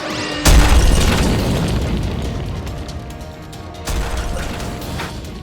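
A booming explosion sound effect about half a second in, dying away in a long rumble, then a second, smaller boom a little before the four-second mark, over background music.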